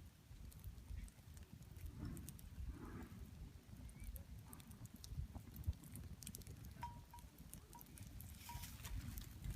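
Wood campfire crackling: scattered sharp pops and ticks over a low rumble, with a few short high peeps in the second half.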